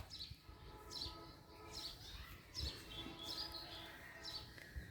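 Faint bird chirping: short, high, falling chirps repeated every half second or so.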